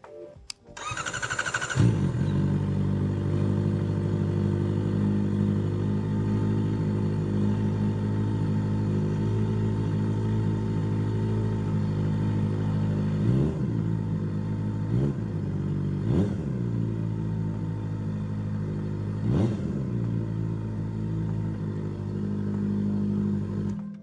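Kawasaki ZX-4RR inline-four with a Trick Star Ikazuchi slip-on exhaust, dB killer removed, starting about a second in and settling into a steady idle. It is blipped four times in quick rises and falls of revs, and the sound cuts off near the end. The open exhaust sounds echoing in the garage.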